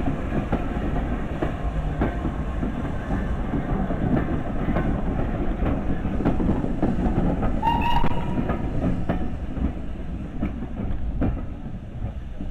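Heritage steam railway train running on the track: a continuous low rumble with scattered clicks and clatter of the wheels, easing off near the end. About eight seconds in there is one brief high tone.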